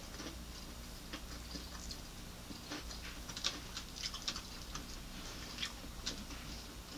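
Someone chewing fried chicken wings, with scattered small, sharp crisp clicks and smacks at irregular times as the fried coating and meat are chewed and the wing is pulled apart by hand.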